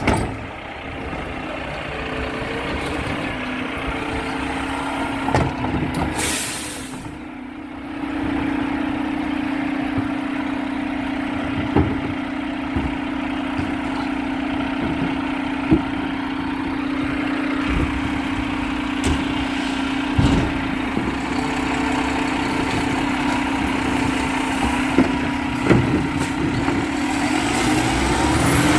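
Garbage truck engine running steadily, with a loud air-brake hiss about six seconds in and a few sharp knocks and bangs over the engine.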